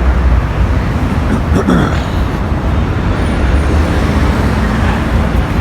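Steady road traffic noise: a continuous low rumble of passing vehicles, with a brief voice in the mix about one and a half seconds in.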